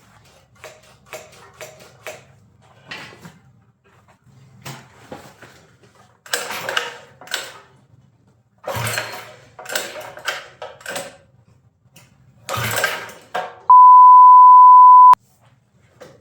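Loud banging and clattering in three bursts, ending in a steady one-tone censor bleep about three seconds before the end.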